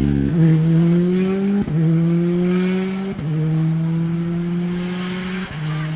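Rally car accelerating hard through the gears, its engine note climbing and dropping back at each of four quick upshifts, fading gradually as it pulls away.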